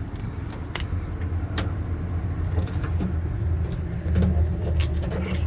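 Steady low drone of a truck engine idling, with scattered light clicks and knocks over it.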